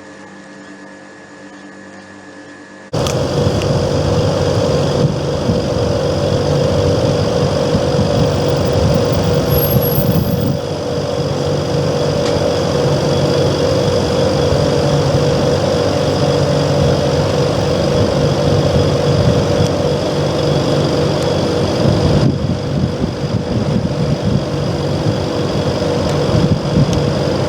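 Panasonic XEPHY commercial air conditioner outdoor unit (CU-P40H6SB) running: a steady mechanical hum from its compressor and fan, with a strong steady tone and a few higher whining tones. It is fainter at first and jumps abruptly to a much louder hum about three seconds in.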